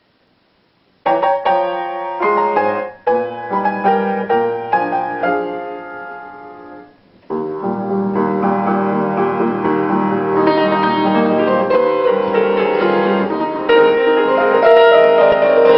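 Piano music. It starts about a second in with separate struck notes and chords that ring and fade, dies away near seven seconds, then resumes as fuller, sustained playing that grows louder toward the end.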